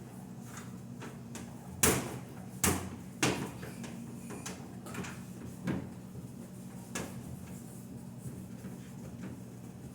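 Refrigerator door and drawers being opened and shut: several sharp knocks and clatters, the loudest two about two and three seconds in, over a steady low hum.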